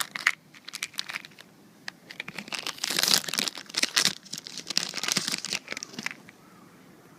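Nezumi-hanabi, a spinning ground firework, fizzing and sputtering in uneven hissing spurts of about a second each, with sharp crackles between them.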